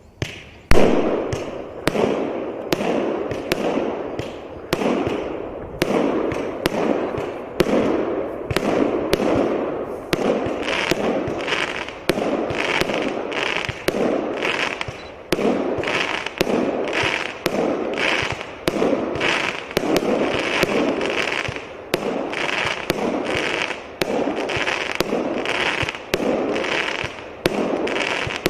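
A 100-shot 0.8-inch firework cake firing shot after shot, roughly one a second or a little faster, each a sharp launch followed by a short burst. From about a third of the way in, each burst also carries a higher hiss.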